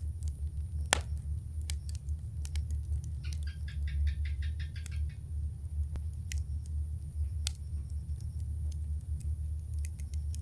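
Campfire crackling: scattered sharp pops and snaps, one loud pop about a second in, over a steady low rumble. Around three to five seconds in, a brief rapid chattering sound comes in.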